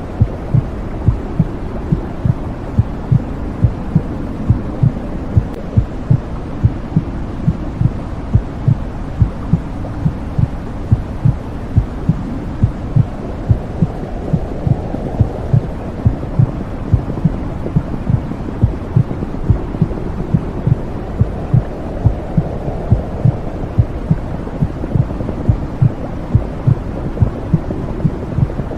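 Womb sound for soothing a baby: a regular heartbeat pulsing over a steady low whooshing noise, unchanging throughout.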